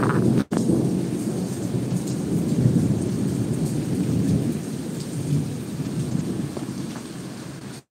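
Heavy rain with a long rolling rumble of thunder that slowly dies away toward the end.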